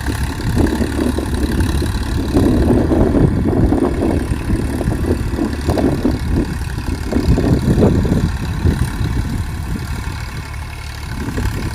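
Farm tractor's diesel engine running under load while pulling a cultivator through a field, with a steady low rumble. It swells and labours unevenly for most of the stretch, then eases off near the end.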